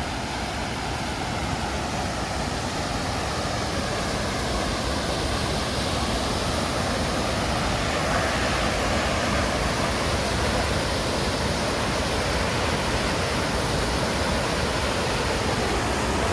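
Storseter waterfall thundering with powerful rushing snowmelt water, a steady dense roar that grows gradually a little louder.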